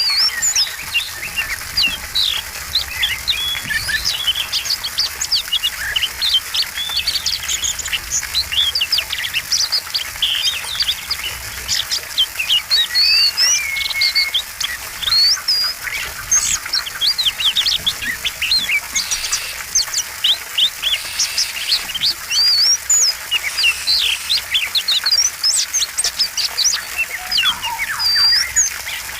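Oriental magpie-robin (kacer) singing a fast, varied song: a continuous stream of short high whistles, chirps and quick up-and-down slurred notes. It is the bird's rich 'isian' song, full of phrases borrowed from other birds.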